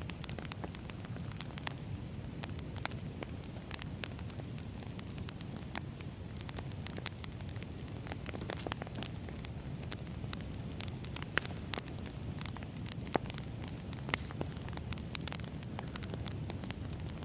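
Wood fire burning: a steady low rumble with irregular sharp crackles and pops of burning logs.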